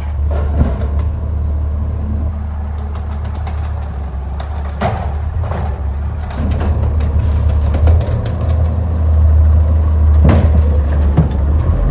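A garbage truck's engine running with a steady low drone, with several sharp knocks and clanks of the truck at work; it grows louder about eight seconds in.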